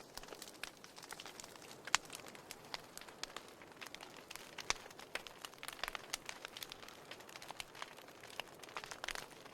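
Burning firewood crackling: irregular small snaps and pops over a soft hiss, with a sharper pop about two seconds in and another near the middle.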